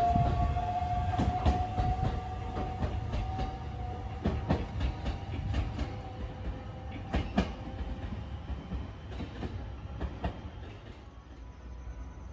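Local train pulling away, its wheels clacking over the rail joints at irregular intervals while a drive tone rises slowly in pitch. The sound grows steadily fainter as the train draws off into the distance.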